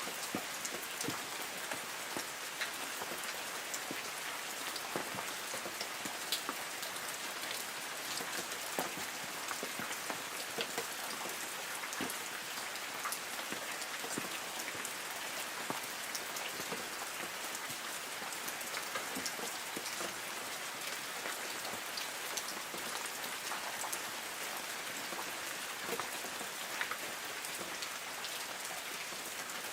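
Light rain falling steadily on forest trees: an even hiss with many separate drops pattering on leaves.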